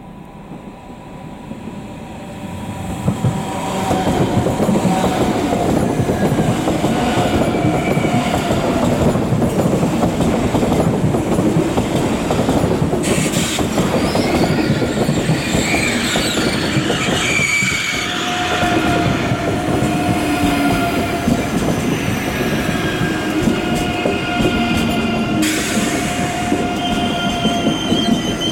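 A train running close by, growing loud over the first four seconds and then staying loud. From about halfway through, high, steady squealing tones from the wheels sound over the running noise.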